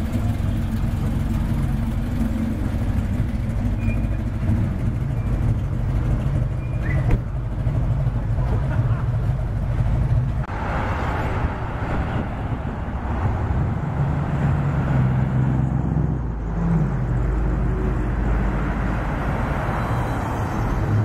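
Low, steady rumble of an American V8 car engine at low speed as the Chevrolet Monte Carlo SS rolls out. About halfway through, the sound changes abruptly to a street where V8 cars drive past with tyre hiss.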